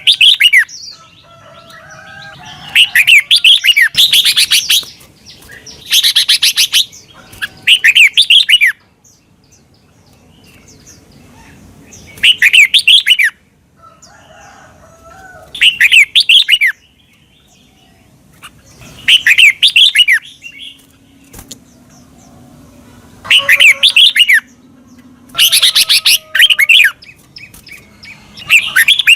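Red-whiskered bulbul singing: loud short phrases of quick, falling whistled notes, repeated every two to four seconds with pauses between.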